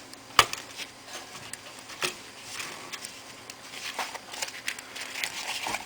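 Sharp clicks and light handling noises of small laptop parts being fitted during reassembly, the loudest click about half a second in and a few fainter ones after.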